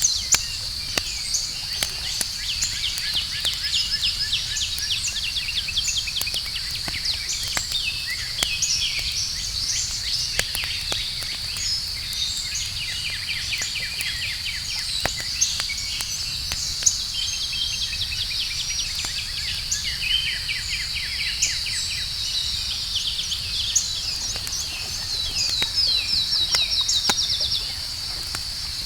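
Campfire crackling with scattered sharp pops, over a steady high-pitched insect chorus and birds singing rapid trills and chirps.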